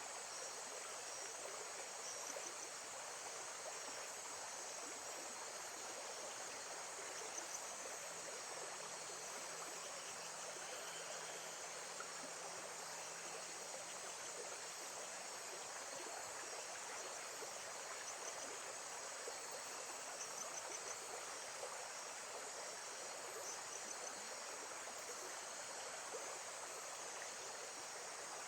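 Steady, even rush of water from a lake-side nature recording, with insects giving short chirping trills every few seconds above it.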